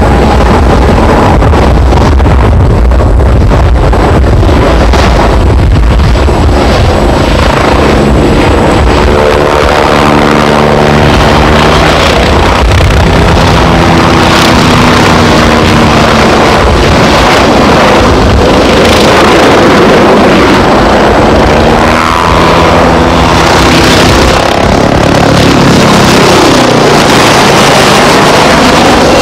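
Red Bull MBB Bo 105 aerobatic helicopter flying a display, its rotor and turbine running loudly, with the pitch sweeping up and down repeatedly as it manoeuvres and passes.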